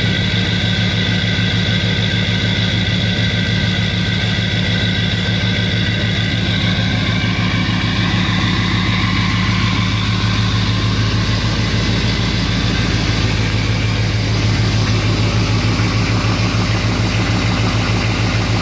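2006 GMC Sierra 2500HD's LBZ Duramax 6.6-litre V8 turbodiesel idling steadily through a straight-piped exhaust, just after a cold start at −10°F and not yet in high idle.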